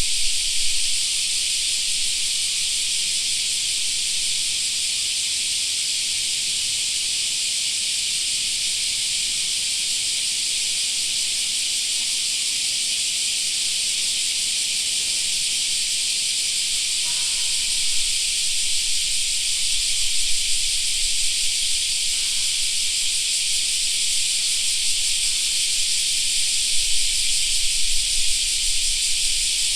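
Cicadas singing in a dense chorus: a steady high-pitched hiss.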